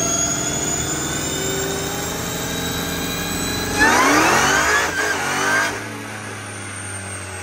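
Dodge Charger Hellcat's supercharged 6.2-litre Hemi V8 revving under load on a chassis dyno. The revs climb steadily, then about four seconds in it turns much louder and the pitch rises fast for nearly two seconds before it drops off. A high whine winds down after it.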